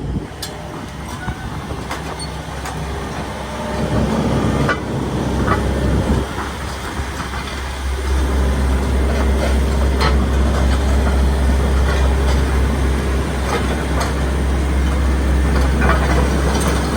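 Hitachi ZX130LCN-6 excavator's diesel engine running, getting louder and heavier about four seconds in and again about eight seconds in, with scattered short clanks and knocks.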